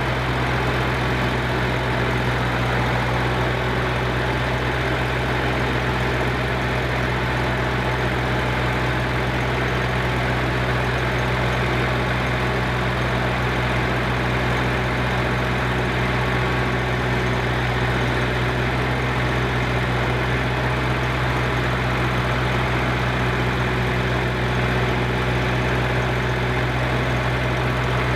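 An engine running steadily at a constant speed, with a strong low hum and no change in pitch or load.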